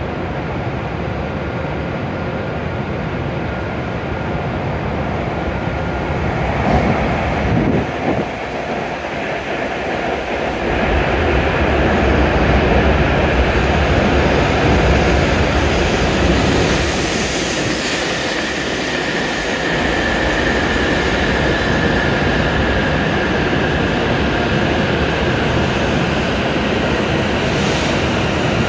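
A W7 series Shinkansen train pulls into the platform and slows down. A rush of wheels and air builds as it comes in, becomes a heavy rumble while the front cars pass, and then settles into a steady high whine as it brakes.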